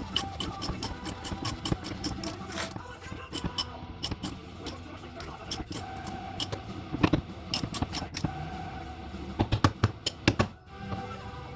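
Irregular metallic clinks and knocks of hand tools being worked on the car, with a brief flurry of louder knocks near the end.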